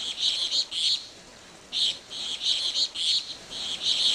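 Birds chirping: quick runs of high chirps, one after another, with a short pause about a second in.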